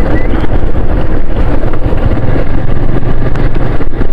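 Motorcycle engine running at speed, with loud, steady wind rushing over the microphone.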